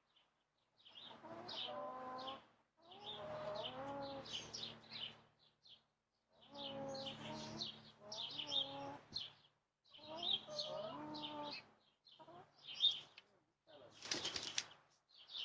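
Backyard hens vocalizing: a run of drawn-out, wavering calls of a second or two each, with high chirps over them. A short noisy burst about fourteen seconds in sounds like a hen flapping its wings.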